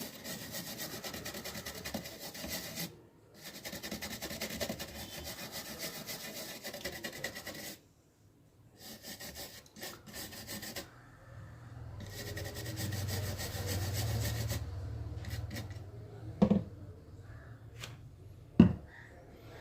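Rapid scratchy rubbing of a cleaning tool on a laptop motherboard's solder pads, in two spells during the first eight seconds. A low hum follows, and two short knocks come near the end.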